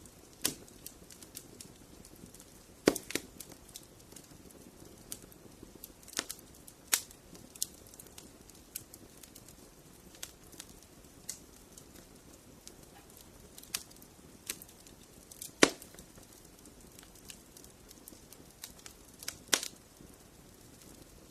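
Wood fire burning in a fireplace: a low steady hiss with irregular sharp crackles and pops, a handful of them louder than the rest.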